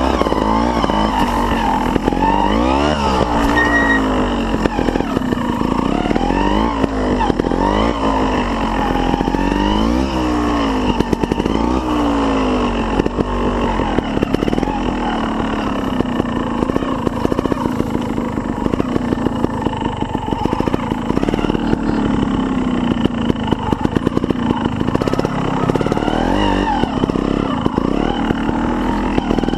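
Scorpa SY250 trials bike's single-cylinder two-stroke engine being ridden, revving up and falling back repeatedly in quick throttle blips through the first half, running steadier in the middle, then blipping again near the end.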